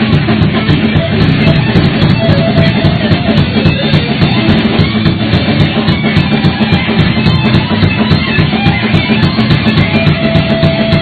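Thrash metal band playing an instrumental passage: distorted electric guitars over a fast, steady drum beat with cymbal hits, no vocals.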